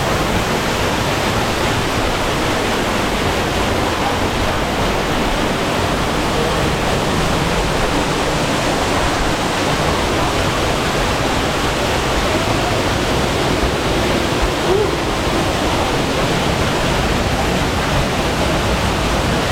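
Waterfall on a mountain stream, water pouring in a steady, even rush.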